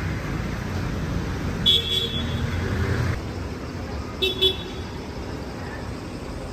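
City street traffic with engines running, and a vehicle horn tooting once about two seconds in and twice in quick succession a little after four seconds.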